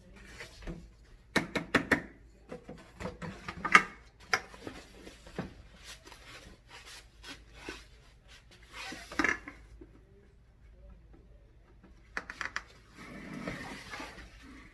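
Irregular knocks, clicks and rubbing from handling the shoe rack's plastic connectors, poles and fabric shelves, in several clusters with quiet gaps between.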